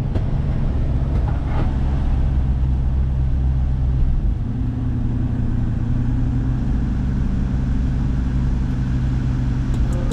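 Inside a pickup truck's cab while driving: a steady low drone of engine and road noise, with the air conditioning running.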